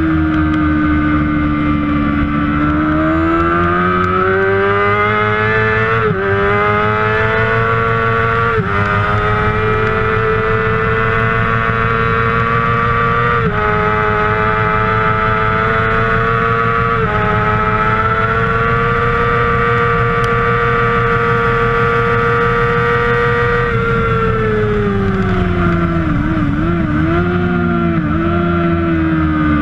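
Kawasaki 600cc racing motorcycle engine at full throttle, revs climbing and dropping sharply at each of four upshifts, then held high and steady. Near the end the revs fall, with quick blips on the downshifts under braking.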